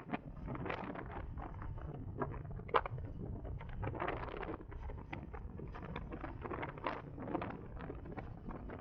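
Wind buffeting the microphone and road rush while riding a CSC Zongshen RX1e electric motorcycle, broken by many short, irregular knocks and rustles. There is no engine note, only the quiet of an electric drive.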